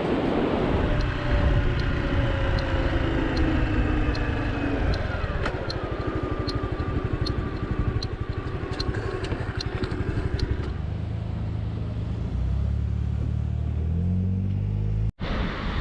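Honda Cross Cub motorcycle's single-cylinder engine running on the road with road and wind noise, its pitch easing down; from about eleven seconds in, the engine note climbs as it accelerates. A light, even ticking about twice a second runs through the first ten seconds.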